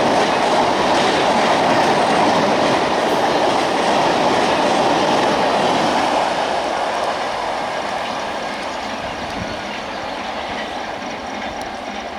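Superfast express train's LHB coaches rushing through at speed: a loud, steady rumble and rush of wheels on rail. It fades gradually from about six seconds in as the train draws away.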